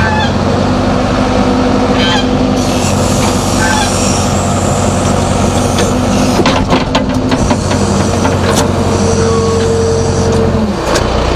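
JCB 3DX backhoe loader's diesel engine running at raised revs, steady, with several short metallic clanks a little past halfway. The revs drop back near the end.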